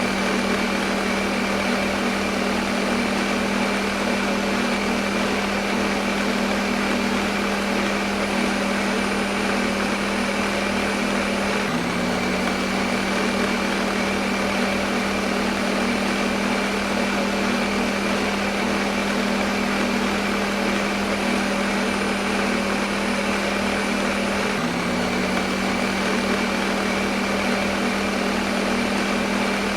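Electric kitchen blender motor running steadily at one speed: a continuous whirring hum with a steady low tone, used as white noise.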